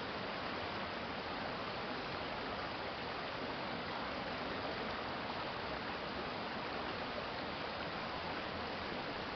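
Water of a stream flowing, a steady, even rushing.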